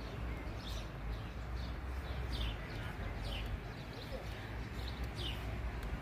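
A bird calling repeatedly with short, falling chirps, about one a second, over a steady low rumble.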